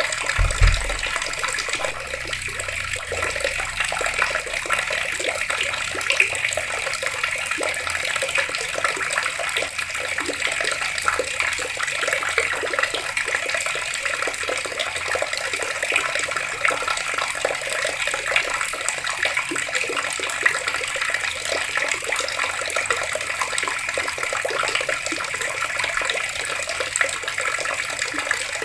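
Water running steadily from taps and splashing down, a continuous even rush. A brief low thump comes about half a second in.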